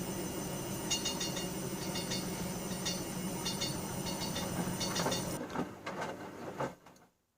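Bauknecht Super Eco 6413 front-loading washing machine running with a steady motor hum and light rattling from the turning drum. About five seconds in the motor cuts out, and the drum coasts down to a stop.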